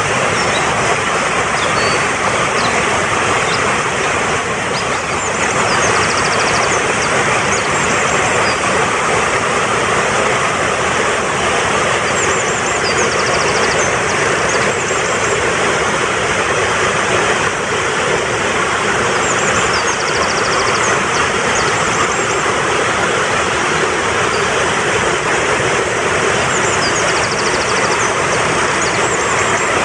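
Fast-flowing mountain stream rushing steadily, with a small bird's high rapid trilled chirps heard above it in short bouts about four times.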